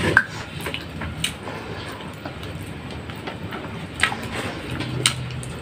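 Close-up eating sounds: wet chewing and lip smacks from people eating saucy pork ribs and rice with their hands, with a few sharp mouth clicks. A low steady hum comes in near the end.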